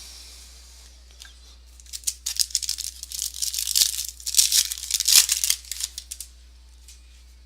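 Crinkling and rustling of a trading-card pack's foil wrapper and cards being handled, a dense run of small crackles that starts about two seconds in and dies away after about four seconds.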